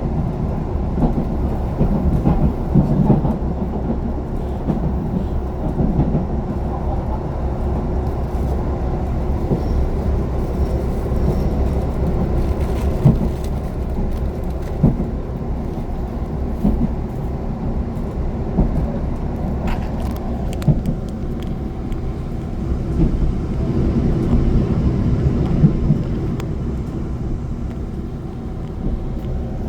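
Diesel limited express train running at speed, heard from inside the carriage: a steady low rumble with occasional short clicks from the wheels on the rails.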